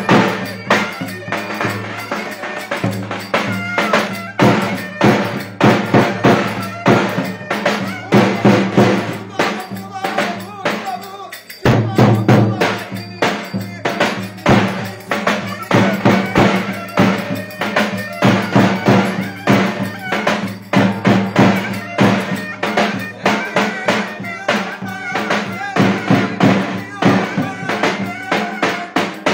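Live wedding dance music: a strong, steady drum beat under a sustained low drone and a melody line. The music dips briefly about eleven seconds in, then picks straight up again.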